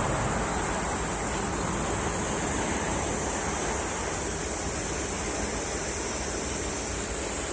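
Sea waves washing steadily onto the shore, with a chorus of cicadas keeping up a constant high-pitched buzz over it.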